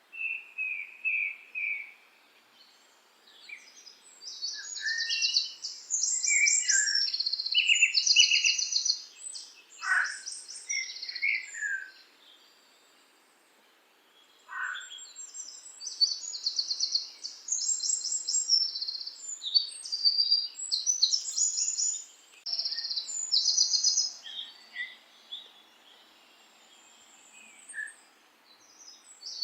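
Songbirds chirping and trilling in quick, high-pitched phrases with short pauses between them, and a couple of quick falling whistles.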